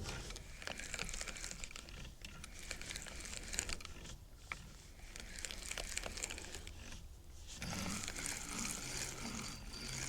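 Faint rustling and crinkling close to the microphone, with scattered small clicks and ticks; a faint low hum comes in about three-quarters of the way through.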